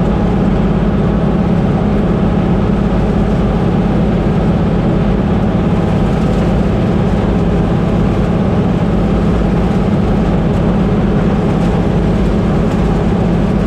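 Combine harvester running steadily under load while harvesting corn: a loud, unchanging engine and machinery noise with a steady low hum.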